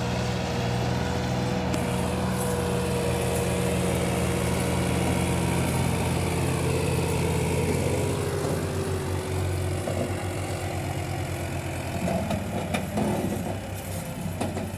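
Massey Ferguson 260 tractor's diesel engine running steadily under load, pulling a stuck trolley out of mud. A whine over the engine drops a little in pitch partway through, and a few irregular knocks come near the end.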